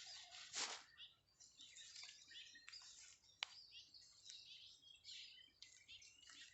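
Birds chirping faintly: many short, quick, high chirps overlapping throughout. There is a brief rustle about half a second in and a single sharp click a little past the middle.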